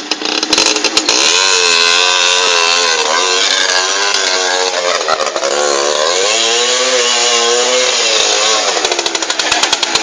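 Small motorcycle engine revving hard at high rpm, its pitch climbing and falling several times, then dropping back to a fast, uneven putter near the end.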